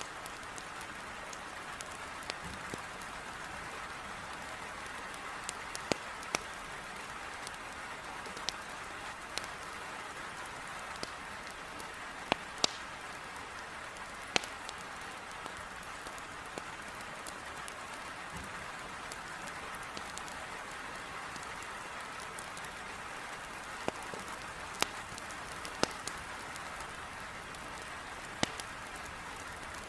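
Heavy rain beating on a window, a steady even hiss, with sharp crackles and pops from firewood burning in a fireplace every few seconds.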